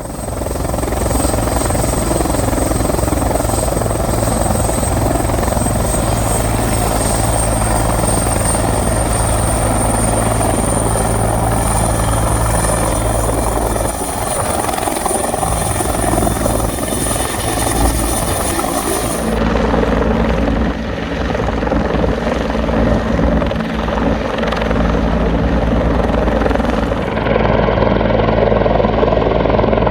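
Bell 412HP twin-turbine helicopter lifting off and flying close by, with its four-blade main rotor beating steadily under a high turbine whine that rises slowly. The sound changes abruptly twice, about two-thirds of the way in and again near the end, where the high whine is gone.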